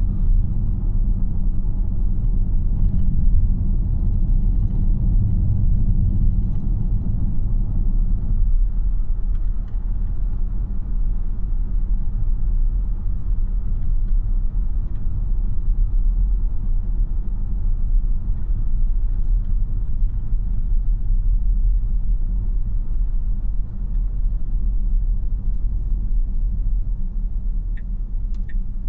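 Road and tyre noise inside the cabin of a 2026 Tesla Model Y AWD on the move: a steady low rumble with no engine note, easing a little about eight seconds in. Near the end a few short, high ticks come about twice a second.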